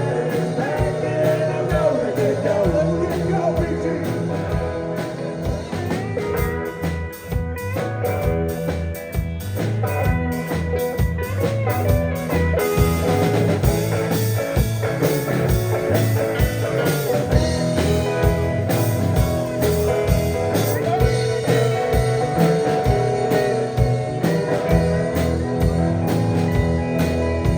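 Blues-rock band playing an instrumental passage, electric guitar over bass and a steady drum beat.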